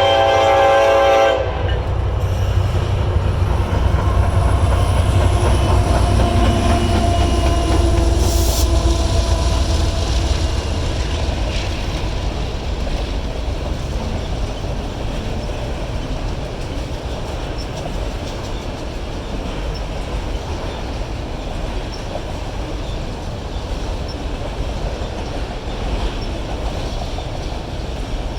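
Freight locomotive horn sounding a chord that cuts off about a second and a half in, followed by the steady rumble and clatter of the autorack cars rolling past.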